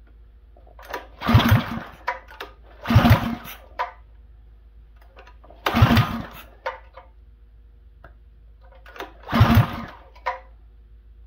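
Mini bike's small engine running on a newly fitted Wildcat WC22 carburetor, being blipped four times with short throttle surges between stretches of low idle. The engine is still being tuned in and its idle is not yet set.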